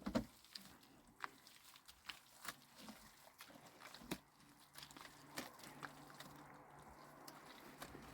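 Quiet, with scattered faint clicks and taps, and a faint low hum from about halfway through.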